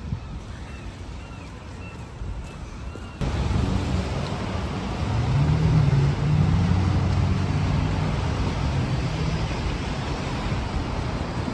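Rain and street traffic in a city: an even rain hiss that gets suddenly louder about three seconds in, with a vehicle's engine drone swelling and fading in the middle.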